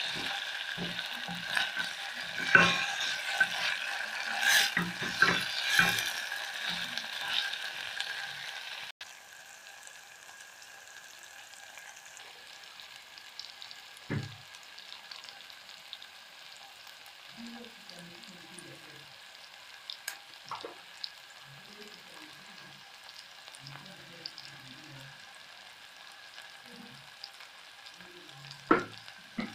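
Red onion and tomato frying in oil in a stainless steel pot, a steady sizzle, with a spatula stirring and scraping against the pot for the first nine seconds or so. After that the sizzle goes on more quietly with a few light scrapes, and a sharp knock comes near the end.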